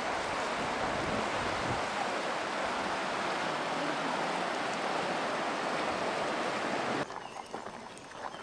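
Steady rush of flowing river water, cutting off abruptly about seven seconds in to a quieter background with small clicks.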